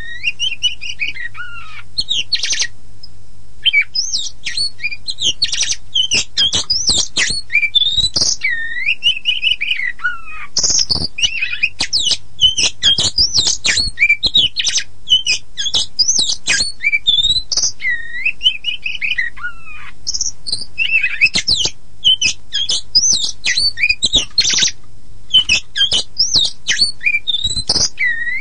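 Oriental magpie-robin (kacer poci) singing a loud, varied song of whistled rising and falling notes mixed with rapid chattering phrases, with a brief pause about three seconds in. A faint steady low hum lies underneath.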